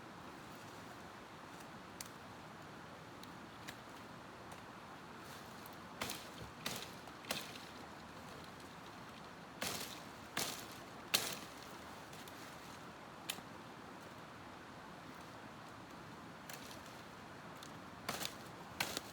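Irregular sharp knocks and snaps of wood being worked by hand, coming in small clusters of two or three, the loudest a little past the middle, over a steady outdoor hiss.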